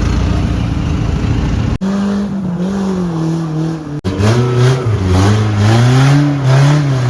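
Off-road 4x4 engine running and revving, its pitch rising and falling several times. It starts as a dense low rumble, and the sound jumps abruptly twice, about two and four seconds in.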